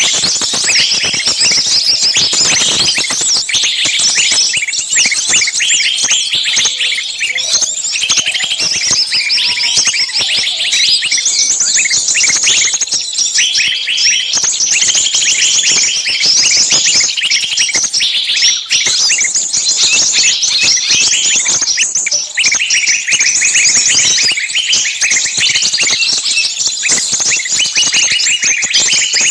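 Many small birds chirping and twittering at once, a dense unbroken chorus of short, high, overlapping calls.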